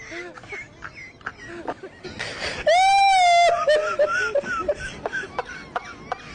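High-pitched vocal sounds from a person: short whimpering, giggling chirps, with one loud, wavering squeal lasting about a second near the middle.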